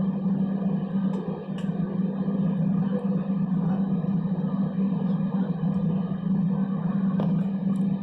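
Steady drone of an Airbus A320's engines heard inside the passenger cabin: a constant low hum over an even rushing noise.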